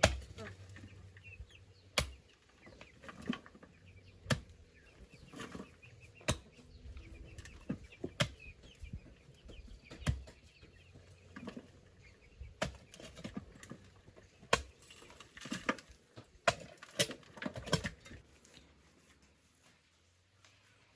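Digging tool striking earth again and again in irregular thuds, roughly one a second, stopping a few seconds before the end.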